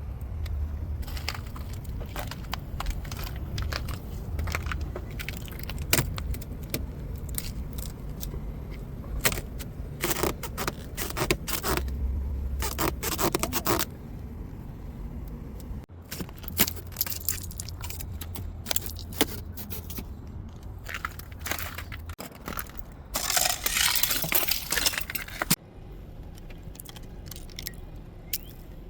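Thick ice on a car being chipped and scraped off: irregular sharp cracks and clicks with short scraping strokes over a low rumble.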